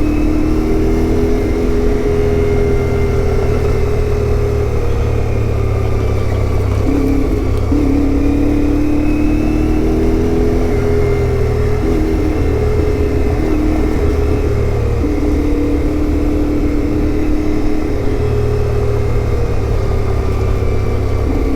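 A CFMOTO 450MT's parallel-twin engine running under way on a motorcycle, its note stepping up and down several times as throttle and gears change, over a steady low rumble of wind on a helmet-mounted microphone.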